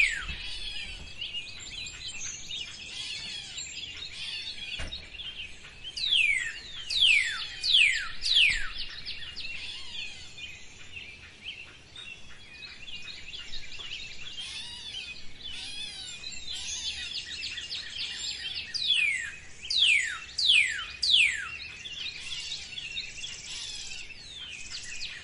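Birds chirping in a dense chorus, with runs of loud, quick falling whistles every so often.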